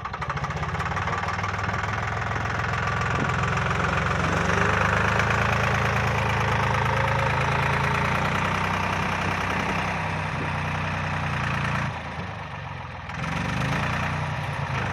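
Lamborghini 660 F Plus tractor's diesel engine running steadily, getting louder over the first few seconds, dropping briefly about twelve seconds in, then picking up again.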